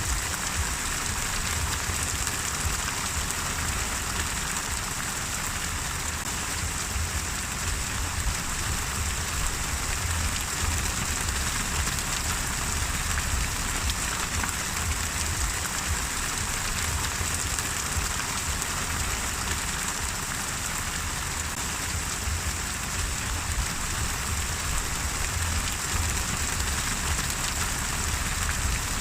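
Steady rain falling: an unbroken hiss of drops with a low rumble underneath.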